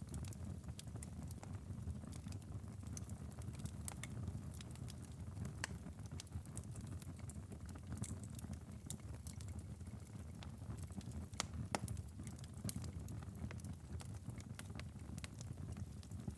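Wood fire crackling steadily in a fireplace: a low continuous rumble of the flames with irregular sharp pops and snaps, a couple of louder pops about two-thirds of the way through.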